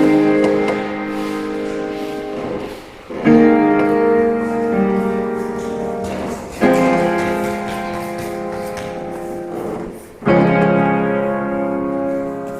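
Slow solo piano music: sustained chords struck about every three and a half seconds, each ringing out and fading before the next.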